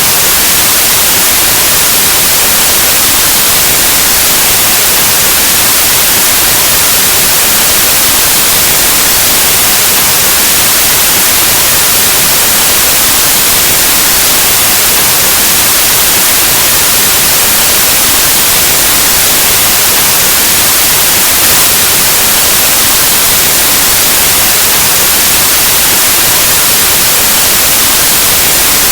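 Synthetic white noise: a loud, steady hiss spread evenly across the whole range of pitch, like the static of an analog TV or radio.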